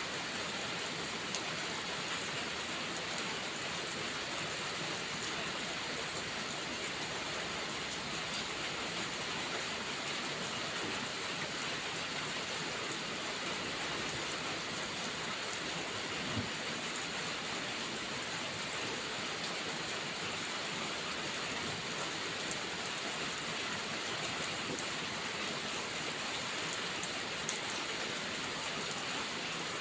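Steady rain falling, an even hiss that holds at the same level throughout, with a few faint ticks of single drops.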